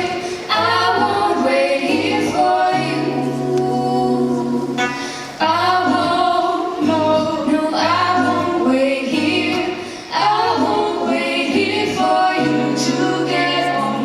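Singing: vocal lines over a sustained accompaniment whose low held chords change every two to three seconds.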